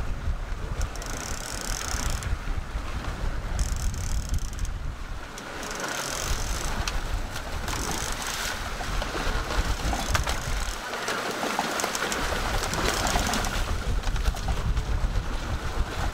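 Sailboat winch being cranked with a handle, its ratchet clicking in repeated spurts, over a steady low rumble of wind and sea.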